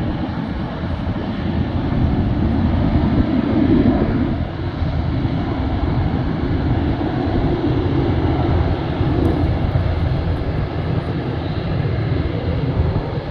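Jet aircraft engines running: a loud, steady rumble that swells and eases slightly.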